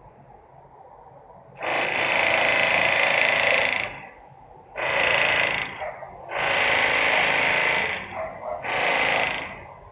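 Loud industrial machine noise: four harsh blasts, each one to two and a half seconds long, with short pauses between them, over a quieter steady background.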